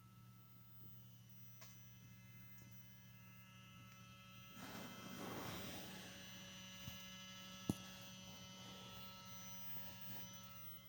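Faint, steady electrical hum from a VW DQ200 seven-speed dry-clutch DSG's mechatronic unit, heard with the ignition on and the engine off. A swell of noise rises about halfway through, and a sharp click follows a little later.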